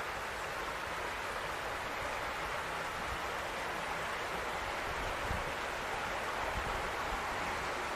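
Steady rushing noise of outdoor ambience after rain, an even wash without distinct events.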